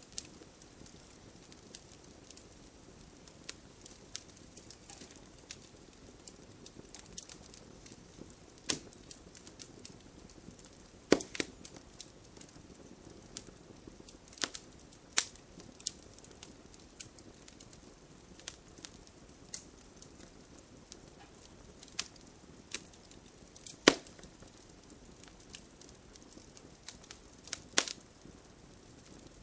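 Wood fire crackling in a fireplace: irregular sharp pops and snaps over a soft hiss, with a few louder pops scattered among the lighter crackle.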